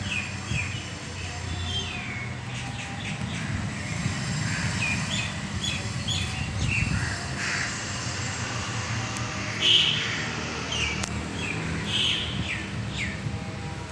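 Birds chirping: many short calls that mostly fall in pitch, coming every second or so, over a steady low hum.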